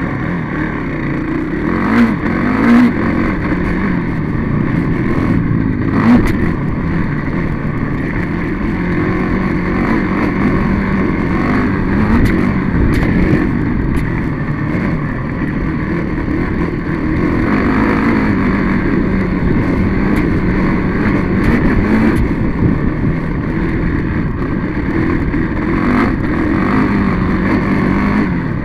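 Dirt bike engine running and revving, its pitch rising and falling, heard close up from a camera carried on the bike, with a few sharp knocks from jolts over rough ground.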